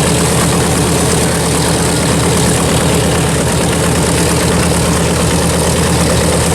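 North American B-25 Mitchell's Wright R-2600 radial engine idling steadily just after start-up, one engine running while the other propeller is still stopped.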